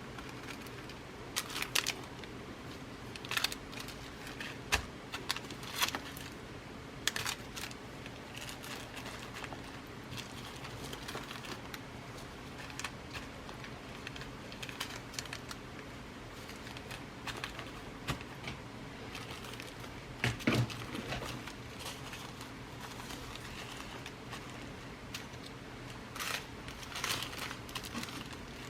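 Glass seed beads and their packets being rummaged through by hand: light clicking and rustling that comes in small clusters with pauses between, over a low steady hum.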